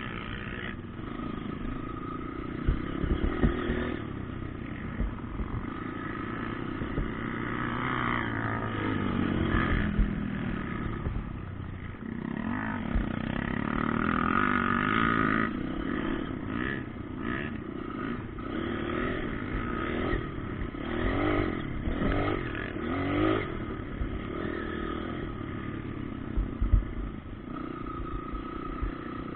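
Motocross bike engines revving up and down, the pitch rising and falling through throttle changes and gear shifts, with a few sharp knocks along the way.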